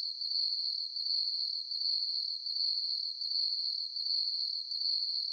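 Crickets chirping in a steady chorus: one continuous high-pitched trill that swells and fades slightly a little more than once a second.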